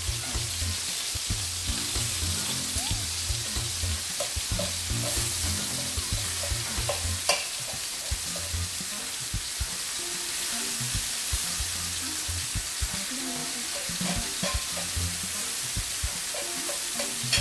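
Grilled chicken pieces sizzling in a hot pan while being shredded and stirred, with utensils scraping and tapping against the pan now and then; one sharp tap about seven seconds in.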